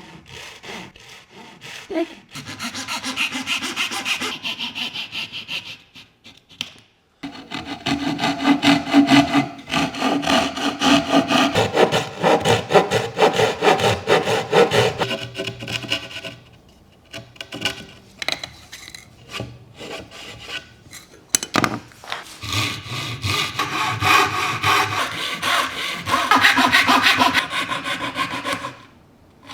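Hand dovetail saw cutting Japanese cedar with quick back-and-forth strokes. It runs in four spells, with brief pauses about a quarter of the way in, halfway, and two-thirds of the way through.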